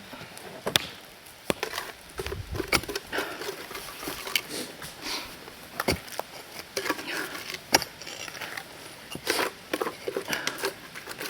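Digging and scraping in stony soil by hand, with irregular sharp clinks of tools and stones knocking together.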